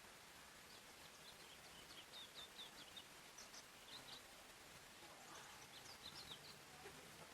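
Faint birdsong: a songbird giving quick runs of short, high chirps in three bursts, over a steady background hiss.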